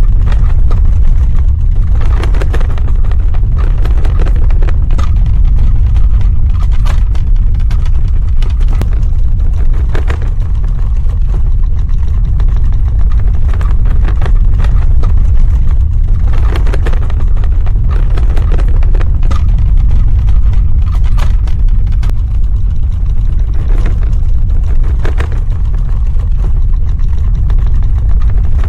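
Earthquake sound effect: a loud, continuous deep rumble with scattered cracks and knocks over it.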